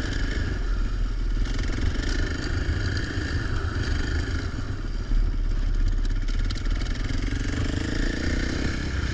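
450 four-stroke dirt bike engine running, its pitch rising near the end as it revs up.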